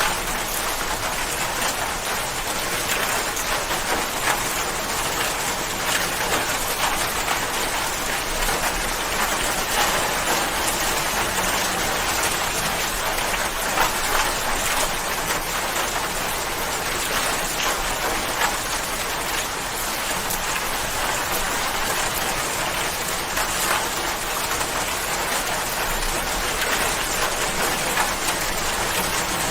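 Steady rain falling, an even hiss of many drops with occasional small louder spatters.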